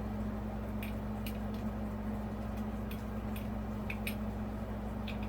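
Scattered small clicks and rustles of electrical wires being handled and joined, over a steady low hum.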